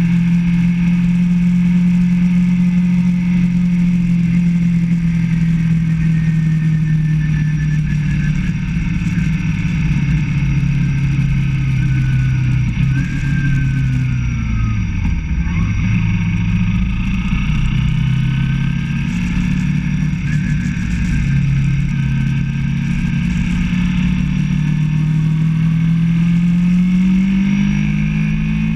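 Motorcycle engine running while riding. Its pitch drops about halfway through as the bike slows, then climbs again as it speeds back up, rising once more near the end.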